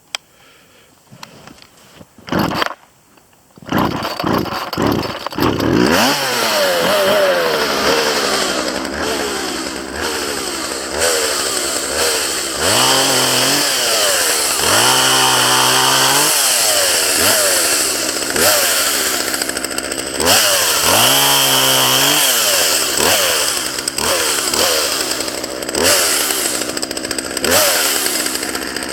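Gas chainsaw being pull-started: a few short pulls on the starter cord, the engine catching about four seconds in, then running and being revved up and down again and again.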